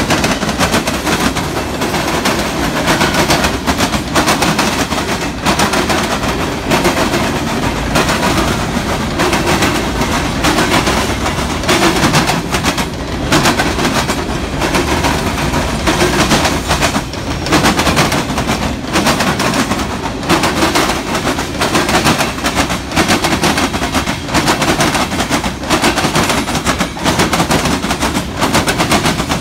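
Freight train of mixed cars rolling past, its steel wheels clattering in a rapid, continuous stream of knocks and bangs over rail joints and crossing tracks.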